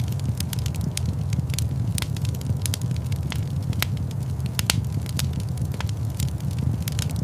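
Wood fire crackling in a fireplace: a steady low rumble of flames with frequent irregular pops and snaps, the sharpest about four and a half seconds in.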